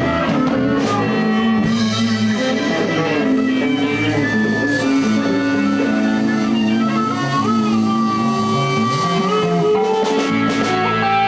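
Live blues band playing an instrumental stretch between sung lines: lead guitar with held, bent notes over bass guitar and drum kit.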